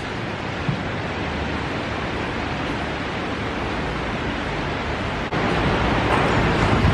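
Very heavy rain pouring down, a steady hiss that grows a little louder about five seconds in.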